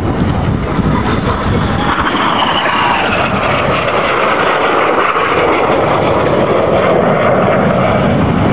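Jet engine noise of BAE Hawk T1 aircraft flying past, a loud steady rush with a whine that falls in pitch over several seconds as the jets go by.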